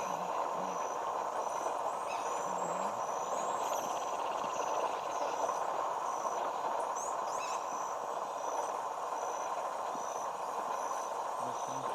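Roadside outdoor ambience: a steady rushing hum with a short high note repeating about every 0.7 seconds. A few brief bird calls come twice, once after about two seconds and again past the middle.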